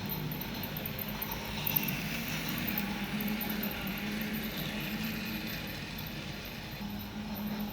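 RailKing O-gauge model steam train running on its track: a steady electric motor hum with the hiss of wheels on the rails, and one sharp click about two seconds in.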